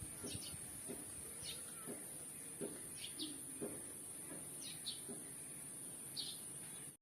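Wild birds chirping: short high chirps, singly or in quick pairs, about once a second, over a steady high-pitched drone.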